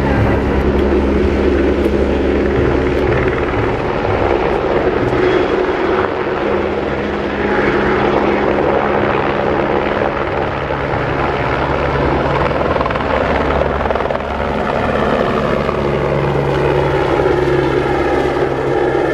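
A large engine running steadily with a deep, even drone that eases off for a few seconds mid-way and returns.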